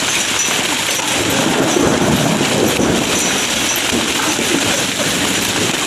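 Hail and rain falling heavily, a dense steady rush of noise.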